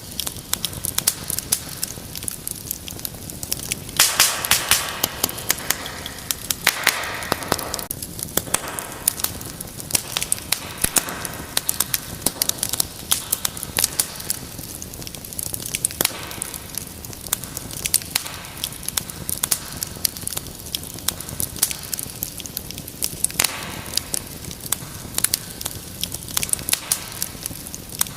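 Wood fire in a fireplace crackling, with frequent sharp pops over a low steady rumble of flames; the crackling swells into louder, denser bursts a few times.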